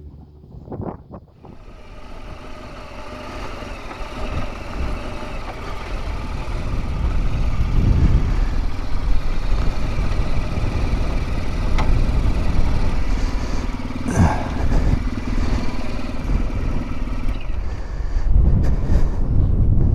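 BMW R1200GS boxer-twin motorcycle running on the road, with wind rushing over the microphone. The sound builds over the first several seconds and then holds steady and loud.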